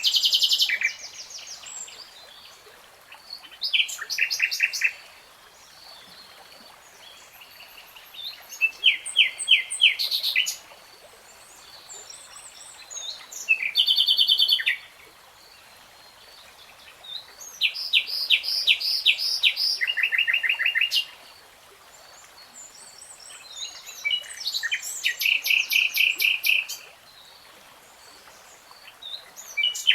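A songbird singing in separate phrases of fast repeated notes, each phrase a second or three long, with pauses of a few seconds between; about seven phrases, each a different pattern.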